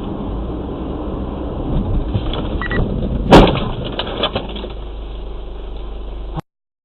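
Muffled dashcam audio of a vehicle on the road: a steady rumble of engine and road noise, then a single loud collision bang a little over three seconds in. A few smaller knocks and rattles follow, then the sound cuts off suddenly near the end.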